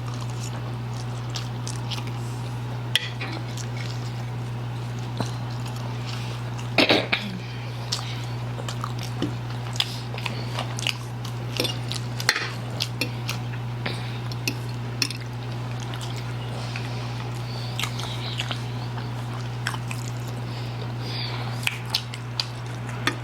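People chewing spicy noodles, with frequent short clicks of cutlery against dishes and a louder clatter about seven seconds in, over a steady low hum.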